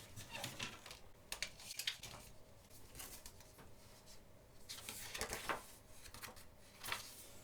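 Faint handling noises from a CD album package, a plastic CD case and its paper insert: soft clicks and rustles, with a louder rustle about five seconds in.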